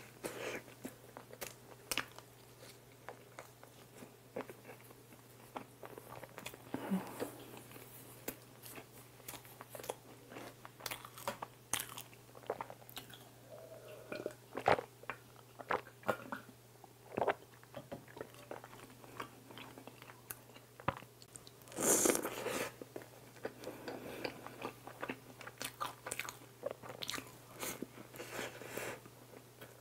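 Close-miked eating of soft cream-filled bread dipped in warm cream: quiet chewing and biting with small wet mouth clicks, and a sip of milk about halfway through. A louder noisy burst comes about 22 seconds in.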